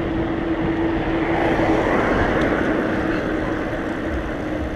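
Wind and road noise while riding a mountain bike on tarmac, with a steady low hum, and traffic swelling past about two seconds in.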